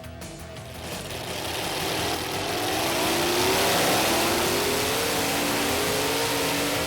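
A vehicle engine revving up with a rushing roar, rising in pitch and growing louder over a couple of seconds, then holding at full power.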